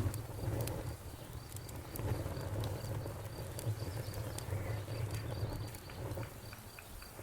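Campfire crackling with scattered sharp pops, over crickets chirping in a steady, fast pulsing rhythm.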